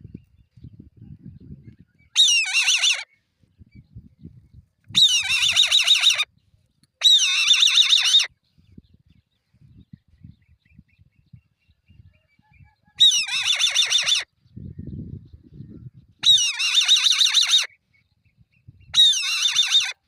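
Young eagle calling: six high, rapidly wavering calls about a second long each, spaced a few seconds apart, with faint low rumbling between them.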